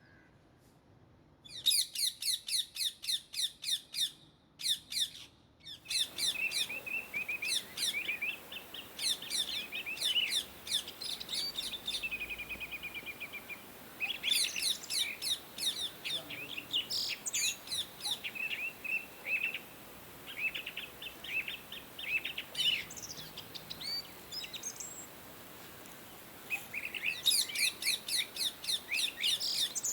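Indian ringneck parakeets chirping in fast runs of short, high, falling notes, several a second, broken by brief pauses; the calling starts about a second and a half in.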